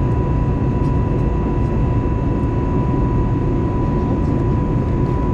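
Steady airliner cabin noise inside an Airbus A320neo in flight: an even rush of airflow and engine noise from its CFM LEAP-1A engines, with a constant thin whine over it.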